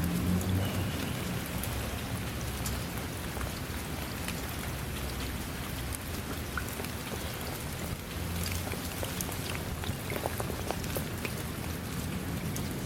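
Steady rainfall with many separate drops pattering on a hard surface, over a low rumble.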